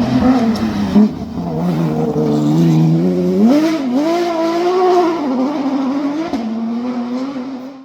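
Rally car engine running hard, its pitch climbing sharply about halfway through, wavering with the throttle, then settling lower again.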